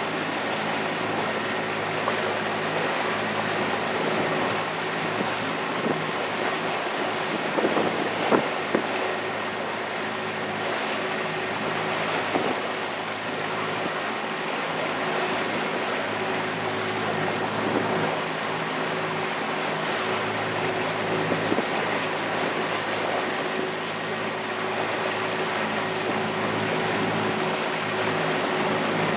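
Boat engine running steadily under way, a constant hum over the rush of water and wind, with a few brief knocks about eight seconds in.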